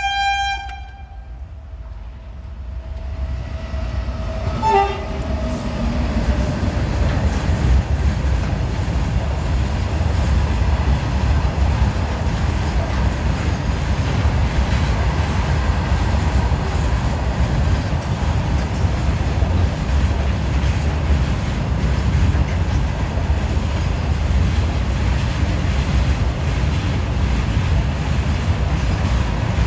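Goods train sounding its horn briefly at the start, with a shorter horn note about five seconds in. The freight train then runs by with a loud, steady rumble and wheel clatter.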